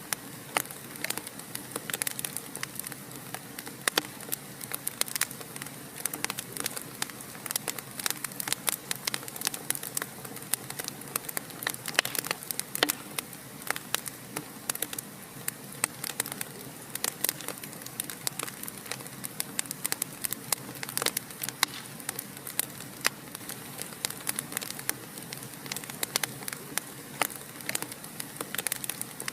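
Fire crackling in a fireplace: a steady hiss with frequent sharp pops and snaps, several every second.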